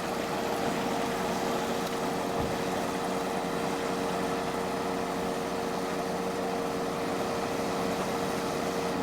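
A motor vehicle running steadily: an even hum carrying a constant tone that stops near the end.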